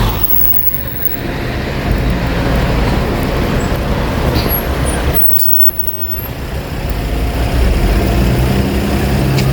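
Road traffic going past on a town street: vehicle engines running with a steady low rumble.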